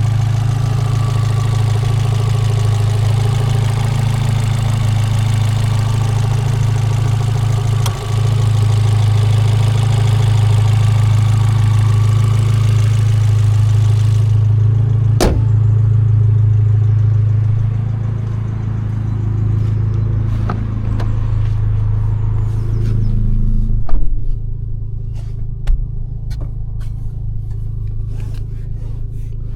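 Abarth 595 Competizione's 1.4 T-Jet turbocharged four-cylinder idling steadily with an even low hum through its Record Monza exhaust. Several sharp clicks and a knock come partway through, the loudest about two-thirds of the way in.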